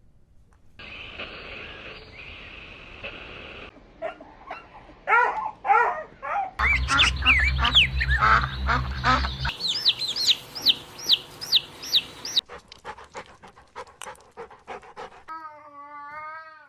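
A series of short animal clips cut one after another, mostly domestic fowl calling in runs of short repeated calls, some sweeping down in pitch. Each clip stops abruptly at the cut.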